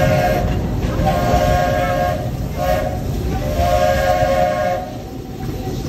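Steam locomotive's chime whistle blown in a series of blasts: one running on from just before, a long one, a short one, then another long one. The train's running rumble continues underneath.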